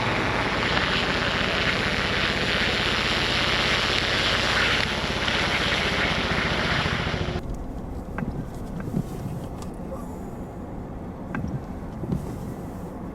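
Steady rushing noise of wind and passing traffic in a snowstorm, which cuts off abruptly about seven seconds in to a quieter low rumble with a few light knocks.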